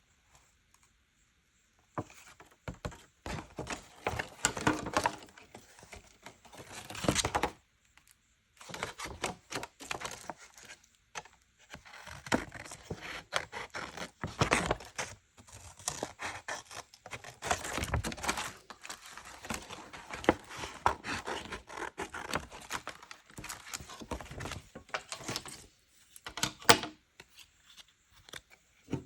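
Paper and scrap materials being handled: irregular rustling, crinkling and tearing in bursts, with small knocks, starting about two seconds in and pausing briefly a few times.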